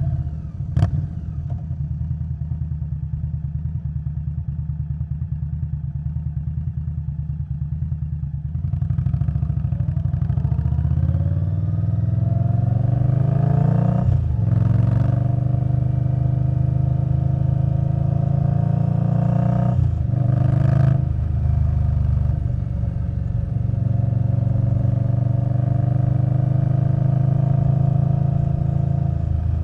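2021 Indian Scout Bobber Twenty's V-twin through Vance & Hines Twin Slash slip-on mufflers, running steadily at low revs with a sharp click about a second in. At about a third of the way in it pulls away, revs rising through two quick gear changes, then settles into a steady cruise.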